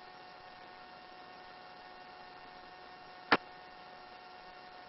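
Faint steady electrical hum and hiss on the helicopter's headset intercom line, with one sharp click a little over three seconds in.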